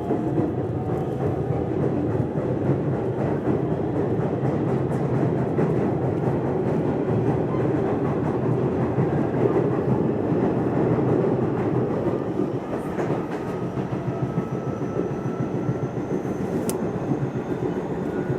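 Nishitetsu electric train running along the track: a steady rumble of wheels on rail, with a faint whine that rises in pitch in the second half.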